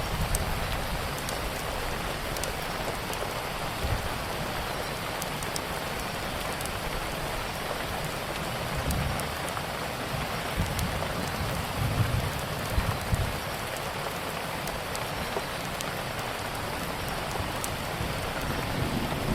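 Steady rain falling, with scattered sharp crackles from a wood fire and a few low rumbles partway through.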